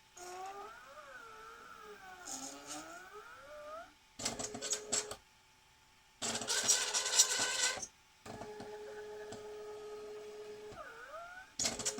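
Motors of a 3D-printed SCARA chess robot arm whining as the arm moves, the pitch gliding up and down as they speed up and slow down, then holding a steady whine for a few seconds. Two louder, harsher buzzing stretches come between the glides, and another starts near the end.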